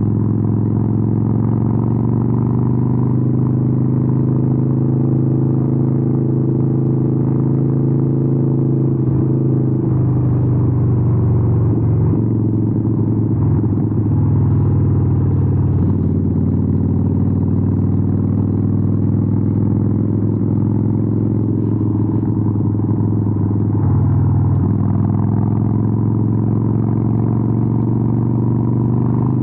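2013 Harley-Davidson 883N's air-cooled V-twin running through Vance & Hines aftermarket exhausts as the bike is ridden. The exhaust note is loud and steady, and its pitch shifts about a third of the way in and again near the end.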